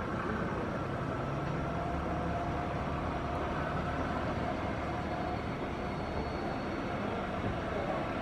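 Boeing 737-800's CFM56 jet engines running at idle while the airliner taxis: a steady rushing noise with a faint high whine.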